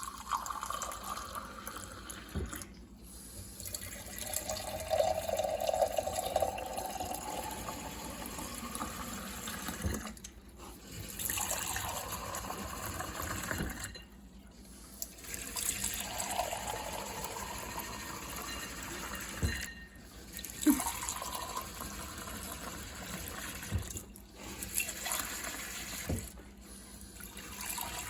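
Water pouring into drinking glasses, one glass after another, in several pours split by short breaks, the tone rising in pitch as each glass fills.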